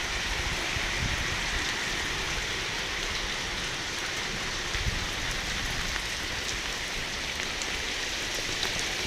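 Heavy rain falling steadily, a dense even hiss of drops pattering on standing floodwater and hard surfaces.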